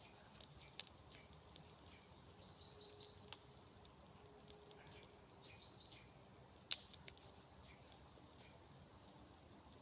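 Faint forest ambience: a small bird calling in short runs of quick chirps, twice, with a falling call between them. A few sharp clicks, the loudest a little before the seventh second.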